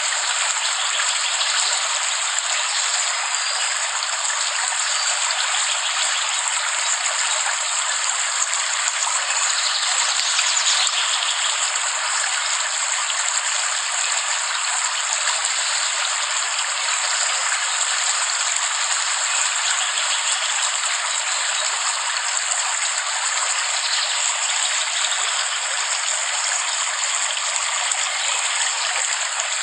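Steady rain falling, an even, unbroken hiss with no low rumble.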